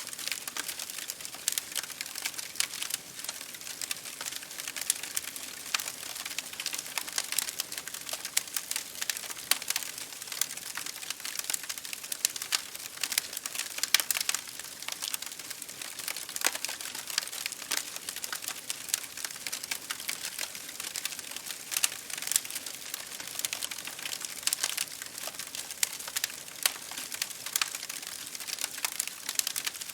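Wood fire crackling in a fireplace with rain pattering on a window pane: a steady, dense run of irregular sharp crackles and ticks, a few louder pops standing out.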